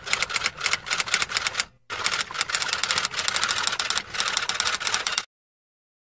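Typewriter being typed on quickly, rapid clicking keystrokes, with a brief pause about two seconds in before the typing resumes; it cuts off a little after five seconds.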